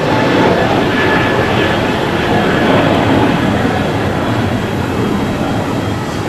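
Jet engine noise from a passing Airbus A321neo airliner: a loud, steady roar that fades slowly.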